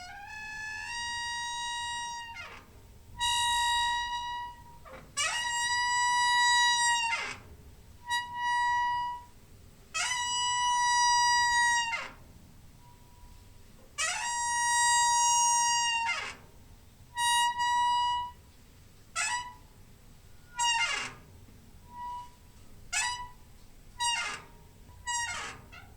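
Creaky door hinge squeaking again and again as the door swings, about a dozen squeaks. Each is a steady, high squeal that slides in pitch at its start and end; the early ones last a second or two, and they get shorter and quicker near the end.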